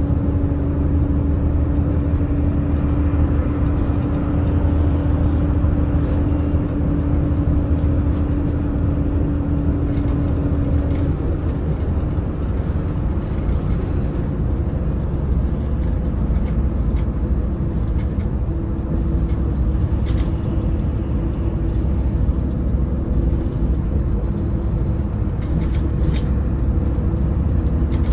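Daewoo Bus FX116 coach's engine running under way with tyre and road rumble, a steady low drone. A steady whine over it stops about eleven seconds in, and a slightly higher whine comes in later, with a few light rattles near the end.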